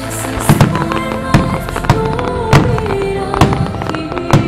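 Starmine fireworks: aerial shells bursting in a quick run of sharp bangs, over music playing along with the display.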